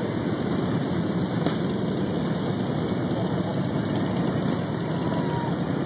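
Steady low rumble of idling vehicle engines, with a murmur of voices underneath.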